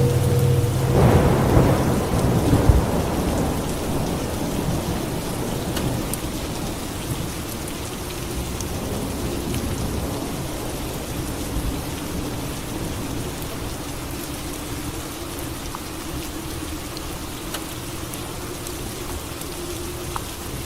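Thunderstorm: a thunderclap about a second in, rolling off over a few seconds, over steady rain.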